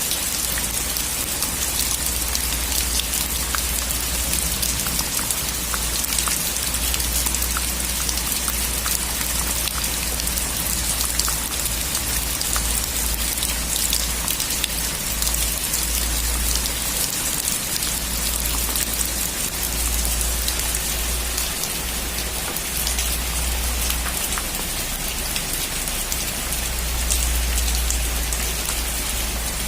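Steady heavy rain on a metal roof: a dense hiss with many single drops ticking through it, over a low rumble.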